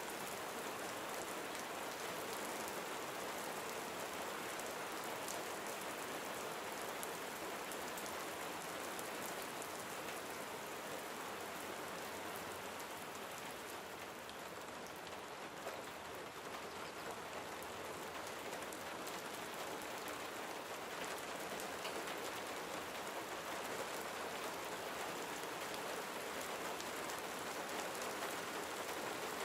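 Steady gentle rain falling, a dense even patter of drops on surfaces, easing slightly around the middle.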